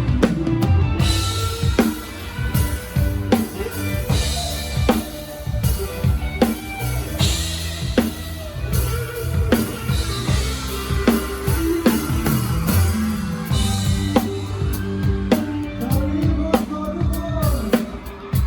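Live band playing, with the drum kit up front: steady kick and snare beats and rimshots over bass guitar and guitar, and a crash cymbal about every three seconds.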